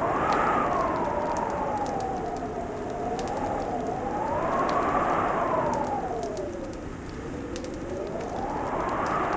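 Fireplace crackling with scattered sharp pops, over a steady rushing hiss. Through it a hollow whistling tone slowly swells and sinks, highest near the start, about five seconds in and near the end, lowest about seven seconds in.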